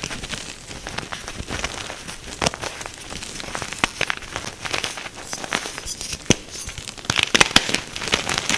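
Pressed blocks of gym chalk being crushed and crumbled, a dense run of dry crunches and crackles with a few louder snaps, the loudest cluster near the end.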